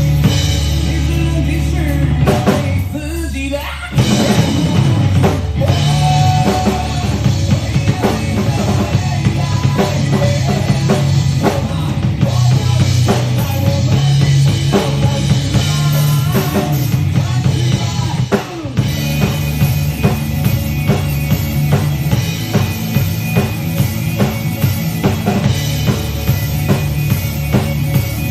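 Drum kit played in a steady groove of bass drum and snare over pitched band music. The level drops briefly about three seconds in and again near eighteen seconds, before the groove picks up.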